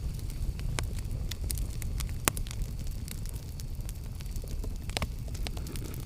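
Campfire burning: a steady low rumble of flames with scattered sharp crackles and pops from the wood, one louder pop about two seconds in.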